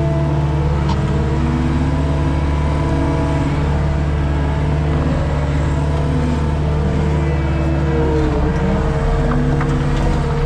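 Skid steer engine running steadily under work, with higher tones that shift up and down in pitch over its steady low note.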